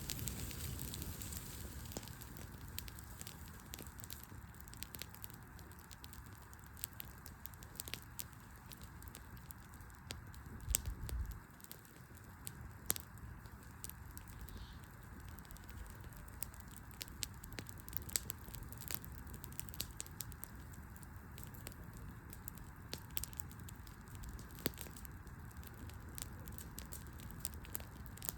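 Wood fire crackling, with scattered irregular sharp pops and snaps. A brief low rumble about eleven seconds in.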